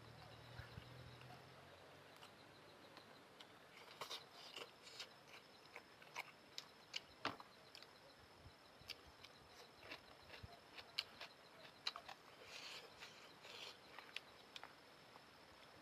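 Quiet chewing of noodles: soft, irregular wet mouth clicks and smacks, with a couple of short busier stretches about four seconds in and again near the end.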